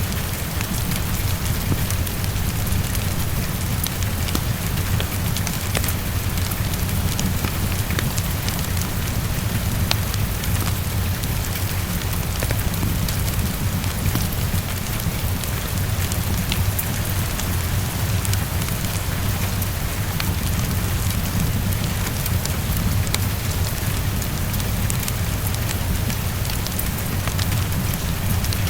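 Heavy rain falling steadily against a window, an even hiss with a steady low rumble underneath, dotted with small scattered crackles of a wood fire.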